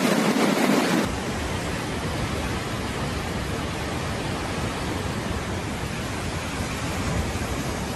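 Steady, even rushing of fast floodwater, with no distinct events; the sound shifts slightly about a second in.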